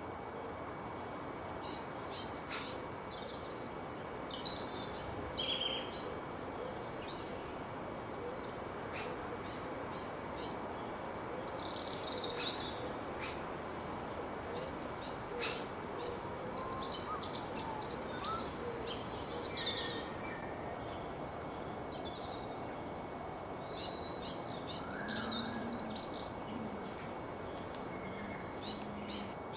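Several wild birds chirping and trilling in quick high bursts over a steady background hiss. A few low, short hooting notes come in near the end.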